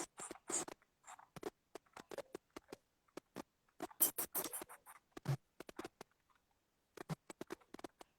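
Irregular light taps, clicks and scratches, some sharp and some in quick clusters.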